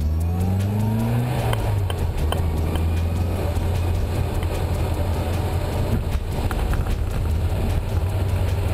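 Classic car's engine heard from on board, rising in pitch as it accelerates for about the first second, then running steadily at speed.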